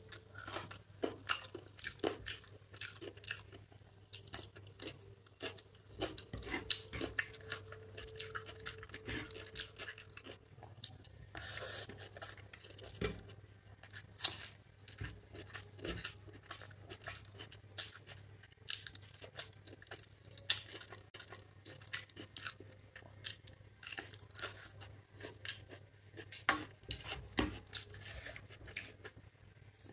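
Close-up mouth sounds of eating chicken biryani by hand: steady wet chewing with many short clicks and crisp crunches from bites of raw red onion.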